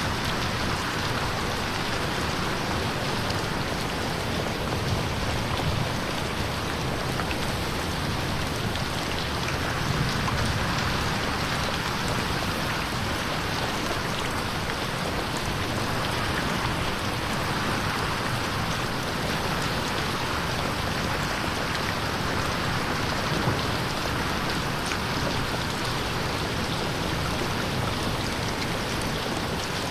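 Steady rain pattering on a window pane, with the level swelling gently now and then and a few sharper drop ticks.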